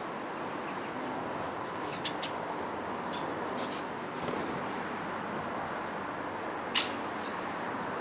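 Small birds chirping in short high notes over steady outdoor background noise, with one sharp, loud click-like note near the end.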